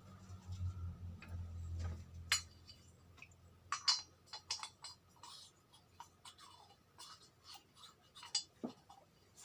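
Irregular short rubbing and scraping strokes with light clicks from hand work on a motorcycle cylinder block. A low steady hum stops about two seconds in.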